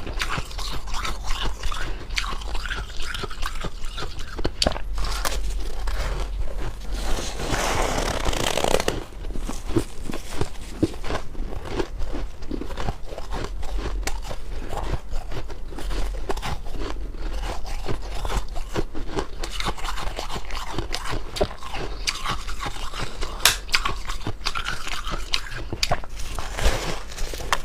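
Ice being bitten and chewed: dense, irregular crunching and cracking, with a busier burst of crunching a quarter of the way in.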